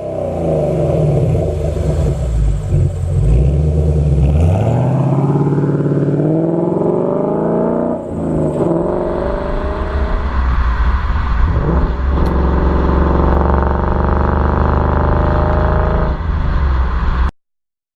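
2015 Mustang GT's 5.0 V8 running through a Corsa Sport cat-back exhaust: engine speed drops, rises again for a few seconds, falls, then holds a steady drone with a slight climb. The sound cuts off suddenly near the end.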